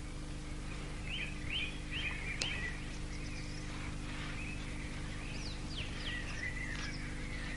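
Small birds chirping in short, quick, slurred notes, in two bursts, over a steady low hum.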